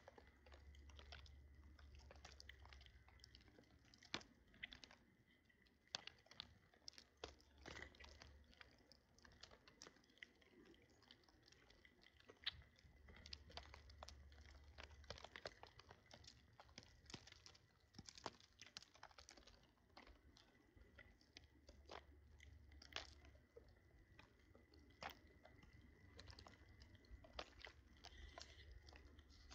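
Birds feeding on seed, a steady run of small irregular pecks, clicks and crunches as the seeds are cracked.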